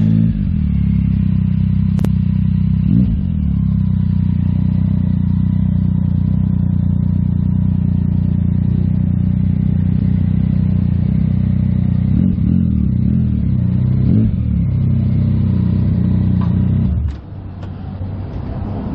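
Yamaha MT-09 SP inline three-cylinder engine idling steadily through a Yoshimura AT2 full exhaust, with a couple of slight wobbles in pitch. The engine sound cuts off sharply near the end.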